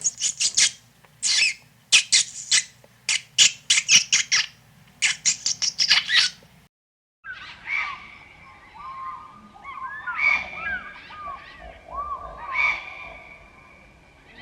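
Animal calls in two parts: first a rapid string of sharp, high squeaks, then, after a brief cut, many short chirping calls layered over steady high tones.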